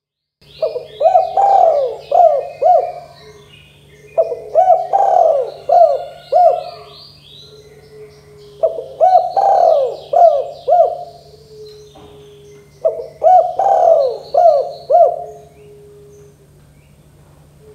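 Spotted dove (tekukur) cooing: four phrases about four seconds apart, each a quick run of four or five coos ending on a longer low note. Fainter high chirping and a steady low hum lie underneath.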